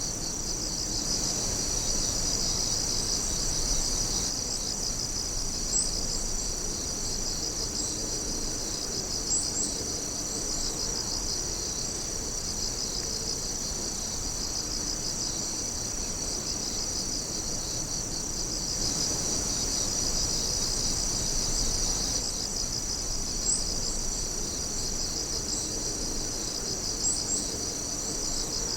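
Night chorus of crickets and other insects: a steady, dense high trilling with a fast pulse, and a few brief sharper chirps on top.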